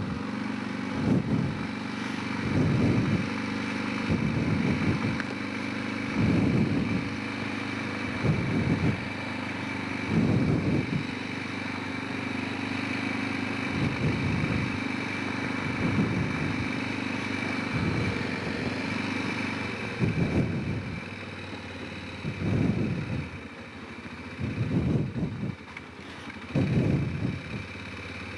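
Honda Rincon 650 ATV's single-cylinder engine running at low speed, with short throttle surges every couple of seconds.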